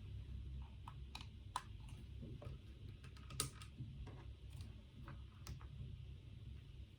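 Faint, sparse keystrokes on a computer keyboard, irregularly spaced, over a steady low hum.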